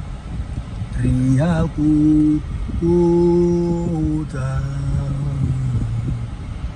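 A low voice humming a slow tune in long held notes, with a wavering rise about a second and a half in, over a steady low rumble.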